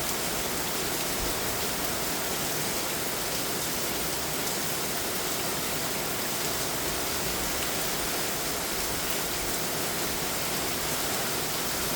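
Heavy desert downpour hammering down, a steady, even roar of rain with no let-up.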